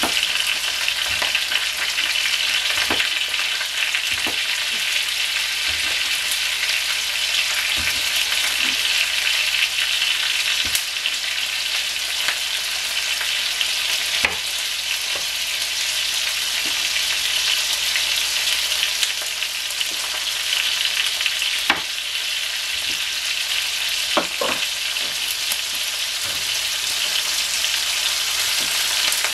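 Sliced chicken sausage sizzling in oil in a wok, a steady hiss, with irregular sharp taps of a chef's knife chopping sausage on a cutting board.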